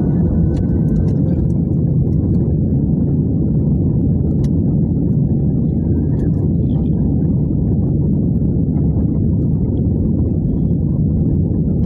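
Steady loud rumble of an Airbus A320's engines and airflow, heard from inside the passenger cabin.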